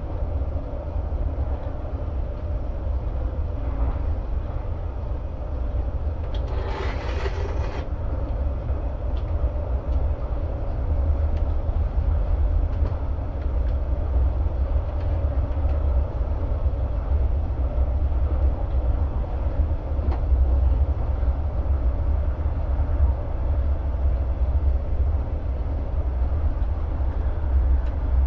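Passenger train running, heard from inside the carriage: a steady low rumble with a brief hiss about seven seconds in.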